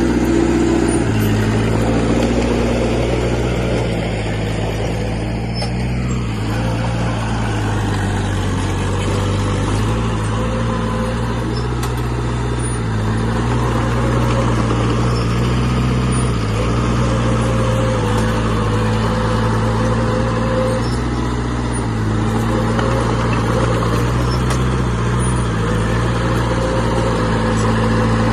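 Heavy diesel earthmoving machine running under load, its low engine note stepping up and down every few seconds as the load changes, over a steady mechanical clatter.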